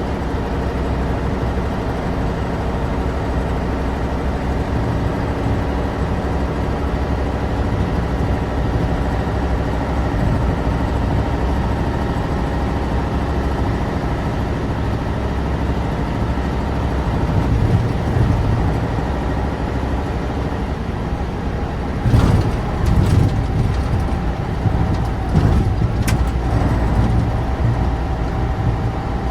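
The 1988 Tatra 815's air-cooled, naturally aspirated V10 runs steadily while the empty dump truck is driven. From about three-quarters of the way in, a few sharp knocks and rattles sound over it.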